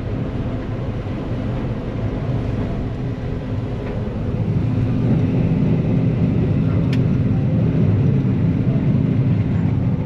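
Combine harvester running steadily while threshing soybeans, growing louder about four and a half seconds in, with a big lump of green material caught in its separator grates.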